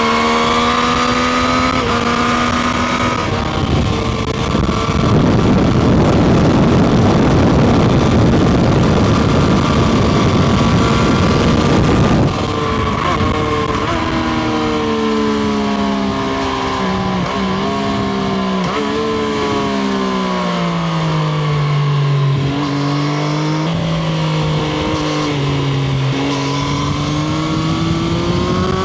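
Triumph Street Triple RS's inline three-cylinder engine heard from the rider's seat. The engine note rises under throttle, then a loud rushing noise covers it for several seconds and cuts off suddenly about twelve seconds in. After that the engine note falls with several brief breaks as the bike slows, and it climbs again near the end.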